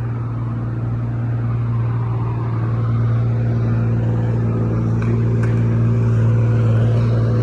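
Engine of a heavy land-clearing machine running steadily at a constant pitch, a deep drone with higher overtones, growing slightly louder.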